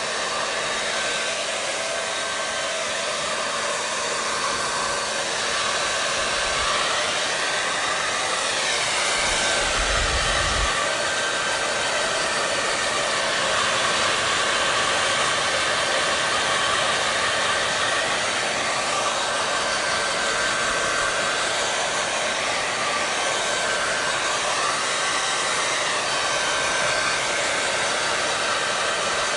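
Handheld hair dryer running steadily: an even rush of blown air with a faint constant hum, and slow, faint swells in its tone.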